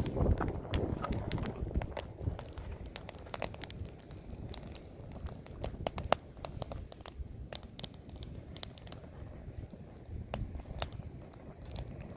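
Wood campfire crackling: irregular sharp pops and clicks over a low rumble.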